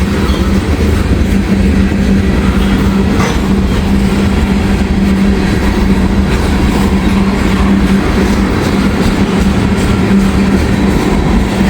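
Freight train rolling past at close range: a steady, loud rumble of wheels on the rail with clickety-clack, under a constant low hum.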